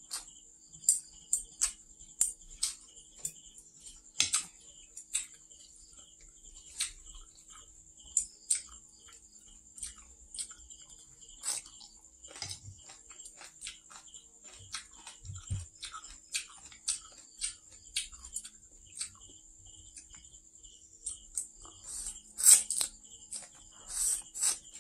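Close-up wet chewing and lip smacks of a person eating stir-fried noodles with water spinach, a string of short sharp mouth clicks, with louder noodle slurping near the end. A steady high-pitched trill runs underneath.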